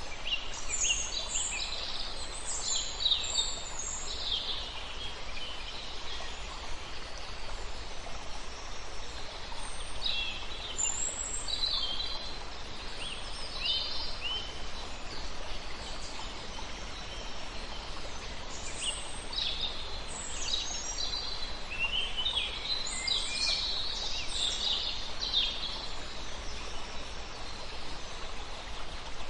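Songbirds chirping and trilling in clusters of short high notes over a steady background hiss of flowing water.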